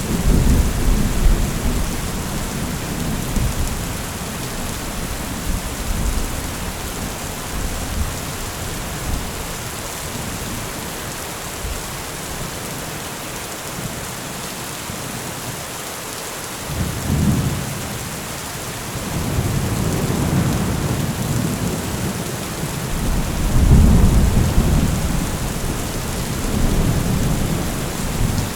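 Thunderstorm: steady rain hissing throughout, with low rolling thunder. One rumble at the start fades over a few seconds, a short one comes about two-thirds in, and a longer roll builds soon after, loudest near the end.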